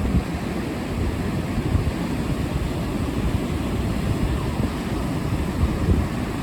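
Strong onshore wind buffeting the microphone in constant irregular gusts, over the steady wash of surf on the beach.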